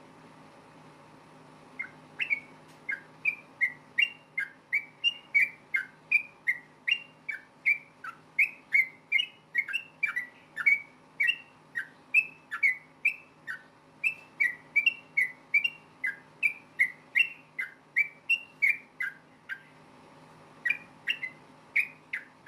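Yellow-vented bulbul (trucukan) calling in a rapid 'ropel' run of short, clear whistled notes, about two to three a second. The notes start about two seconds in and break off briefly near the end before resuming.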